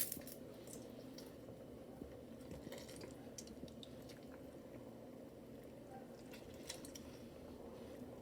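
Faint squishing and dripping of a lemon being squeezed by hand, with a few soft scattered clicks over a steady low background hum.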